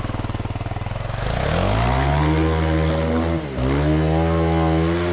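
Dirt bike engine idling with a steady pulse, then revving up about a second in and held at high revs, with a brief drop in revs about three and a half seconds in.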